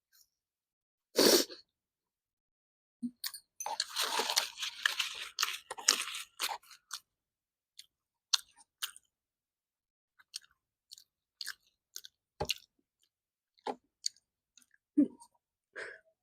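Close-up chewing and crunching of a mouthful of food. A sharp crunch comes about a second in, then a dense run of crunching a few seconds in, thinning out into sparse wet mouth clicks and smacks.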